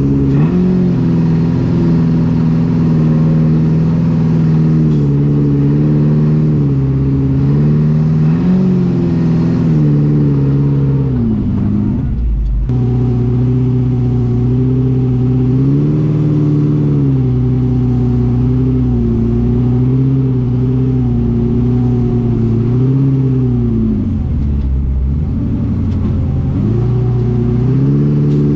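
Engine of an FJ40-based off-road buggy heard from inside the vehicle, its revs rising and falling as it drives. About twelve seconds in the revs fall away sharply and then pick up again, with another dip in revs later on.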